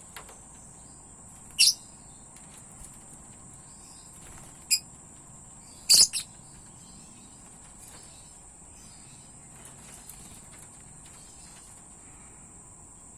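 Steady high-pitched insect trill, like a cricket, under a few short, sharp bird chirps: one about two seconds in, one near five seconds, and a louder double chirp about six seconds in.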